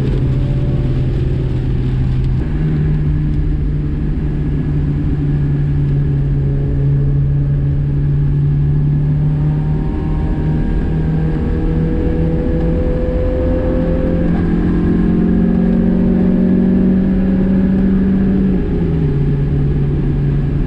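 Car engine heard from inside the cabin over steady road noise, driven hard on a winding road. Its pitch jumps up about two seconds in, climbs gradually for most of the stretch, and falls back near the end.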